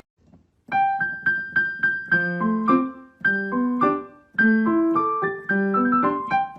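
Background music on a piano-like keyboard: a light melody of short, repeated notes that starts after a brief silence.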